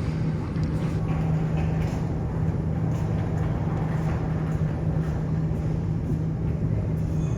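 Aircraft engines running with a steady low drone and hum.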